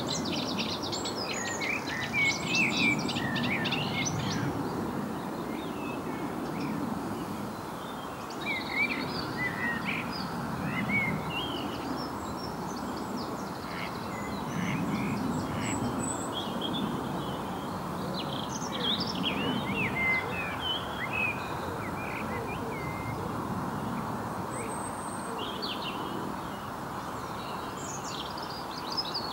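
Several songbirds singing, with quick trills and short chirping notes that go up and down throughout. Underneath, a low rushing noise swells and fades.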